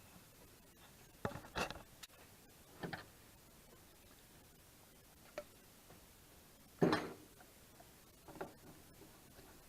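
Scattered knocks and clatters as tools and work are handled at a metal lathe, about five in all, the loudest about seven seconds in; no machine is running.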